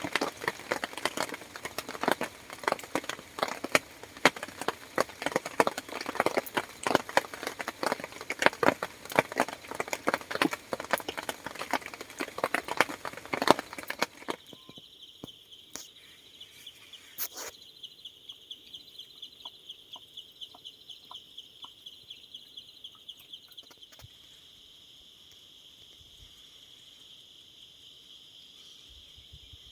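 Campfire crackling and popping, dense and irregular, for about fourteen seconds. It then cuts off suddenly, leaving a quieter, steady high insect trill with fast pulses and a few faint clicks.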